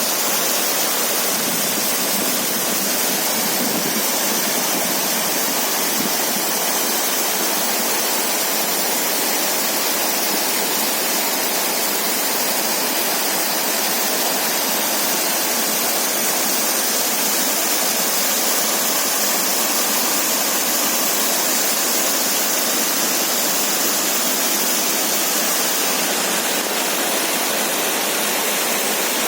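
Fast-flowing mountain water rushing steadily, the continuous roar of a torrent or waterfall.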